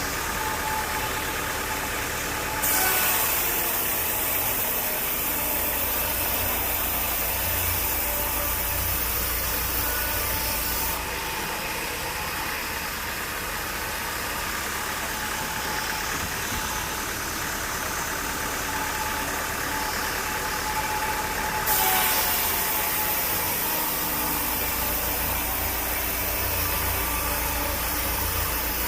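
Sawmill engine running steadily. Twice, a louder hissing rises suddenly over it and runs for several seconds: the saw cutting through wood.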